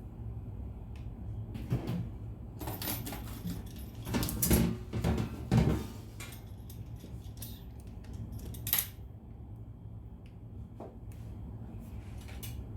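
Kitchen handling noises: scattered clinks and knocks of utensils and dishes, with the loudest clacks clustered about four to six seconds in and one more near nine seconds, over a low steady hum.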